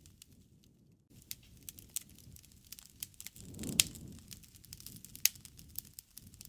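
Wood fire crackling, with scattered sharp pops over a low rushing sound. It is quieter for about the first second, then a low swell builds near the middle as the two loudest pops snap, one a little before four seconds and one just after five.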